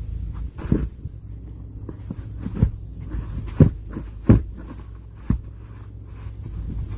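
Snow shovel digging into deep snow: about five separate thuds and crunches a second or so apart, over a steady low rumble.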